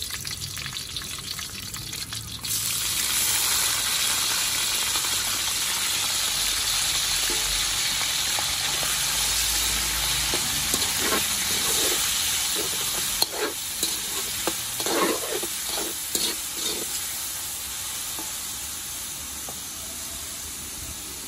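Diced pork and garlic sizzling in hot oil in a wok. The sizzle jumps louder about two seconds in as the meat goes in, then runs on steadily while a metal spatula scrapes and knocks against the wok, easing off slowly near the end.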